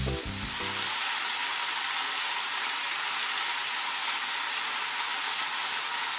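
Pork belly wrapped around king oyster mushrooms sizzling in a frying pan, the fat bubbling with a steady hiss. Background music fades out about a second in, leaving only the sizzle.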